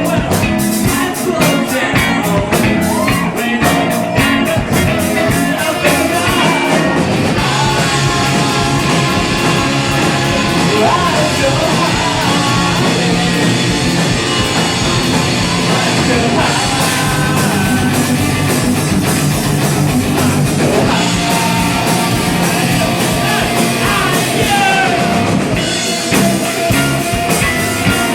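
A rock band playing live, with electric guitar, drums and singing.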